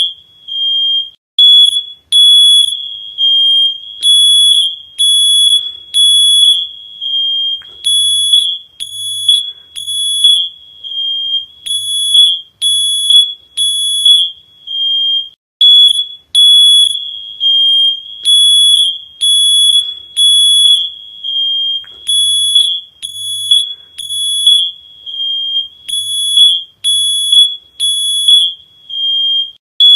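High-pitched electronic alarm beeping loudly in rapid, uneven pulses of short and longer beeps.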